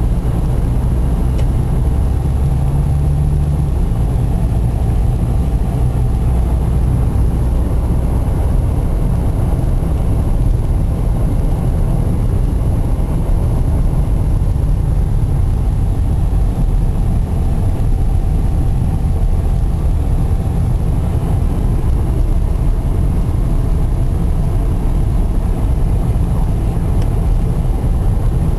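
Blizzard wind buffeting the microphone: a loud, steady low rumble.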